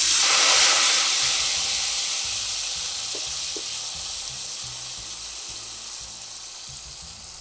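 Ginger-garlic paste and a splash of water sizzling in hot oil in a wok, loud at first and fading steadily, while a wooden spatula stirs it. The water was added to stop the paste spattering.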